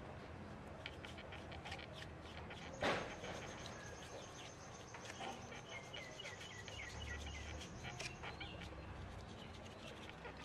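Birds chirping outdoors, with a thin high steady tone held from about three to eight seconds in and a run of quick chirps in its second half. A single sharp knock about three seconds in is the loudest sound, and faint light clicks are scattered throughout.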